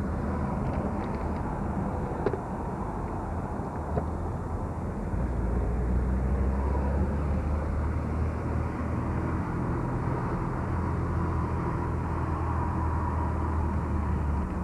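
Car driving along the road, heard from inside the cabin: steady engine and road noise, a little louder from about five seconds in.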